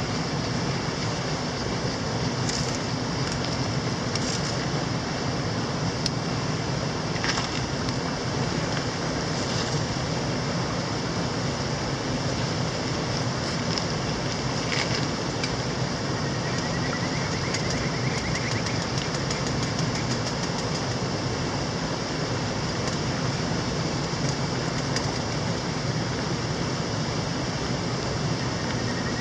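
Mountain stream rushing, a steady unbroken water noise, with a few faint clicks or crackles on top.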